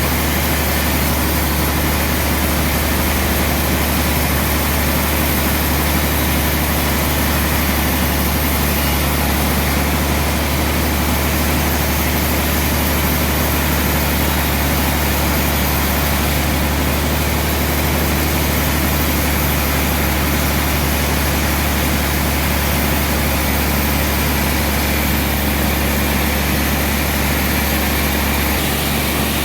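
Sawmill machinery running steadily with a loud, even low hum and a broad hiss over it, unchanging throughout.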